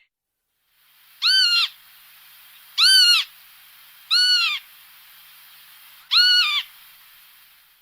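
A bird calling: four short, shrill calls spaced one to two seconds apart, each rising then falling in pitch, over a steady hiss.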